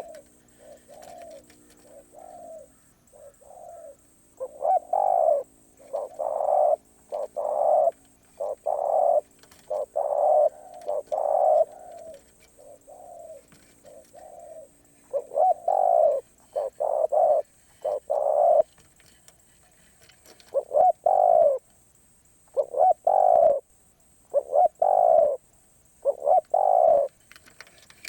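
Spotted dove cooing: repeated phrases of short, low coo notes, softer at first and louder after a few seconds, with brief pauses between phrases.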